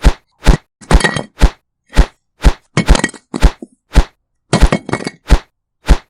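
A steady series of sharp hammer blows on hard material, about two a second, some struck in quick pairs and some followed by a brief clinking rattle.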